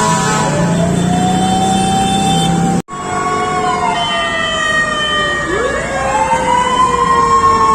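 Fire truck sirens wailing, several at once, their pitches rising and falling over one another, with a low engine hum beneath. The sound breaks off for an instant about three seconds in.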